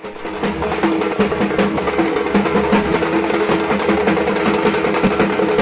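Dhak, the large Bengali barrel drum, beaten with sticks in a fast, unbroken run of strokes whose drumhead rings with a pitched tone. It comes in rapidly at the start and keeps up a dense, driving rhythm.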